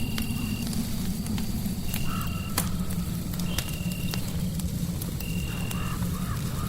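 Fireplace crackling with sharp pops over a steady low rumbling noise bed. A short, flat high-pitched tone repeats about every second and a half, and faint wavering calls come in twice, lower down.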